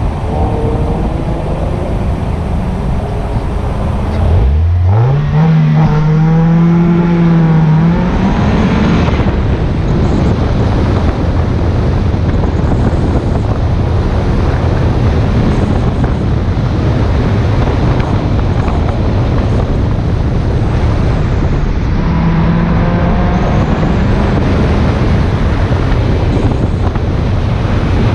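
1999 Mazda Miata's 1.8-litre four-cylinder engine pulling hard under full throttle on an autocross run. Its pitch climbs steeply about four and a half seconds in and holds high for a few seconds, with another held high-rev pull near the end, all over a steady rush of driving noise.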